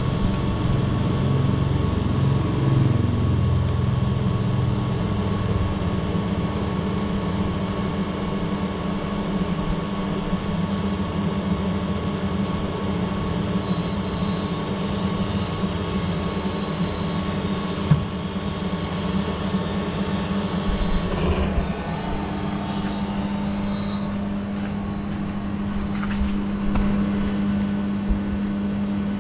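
Steady machine hum with several held tones, a low rumble at the start, and a high hiss that joins about a third of the way in and stops about two-thirds of the way through.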